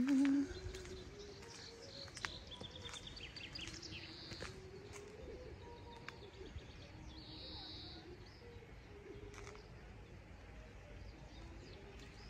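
A songbird singing faintly outdoors: a quick run of high chirping notes, then a couple of single high calls a few seconds apart. A brief voice-like sound opens it.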